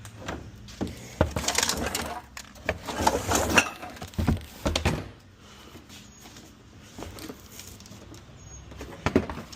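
Cardboard box being pulled out and handled: crinkling, rustling and knocking, busiest for the first few seconds, then a few light clicks.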